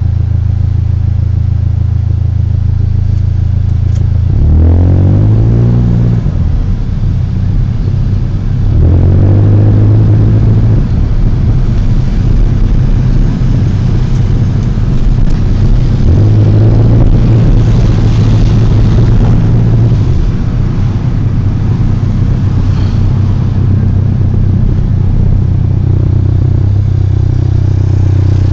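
Car engine idling, revved three times, each rev rising and holding for a few seconds before dropping back. The engine bay gives off an odd noise that the owner likens to pigeons cooing, or a ghost.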